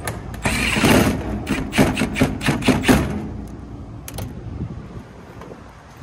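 Cordless power driver running in short bursts, driving sheet-metal screws into a condenser unit's panel, with a string of sharp knocks between about half a second and three seconds in.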